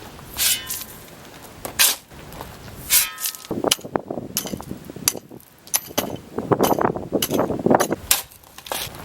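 Hard stone-on-stone or tool-on-stone clinks, three sharp ringing ones in the first few seconds, then a stretch of gritty scraping and crunching, as of paving stones and grit being shifted.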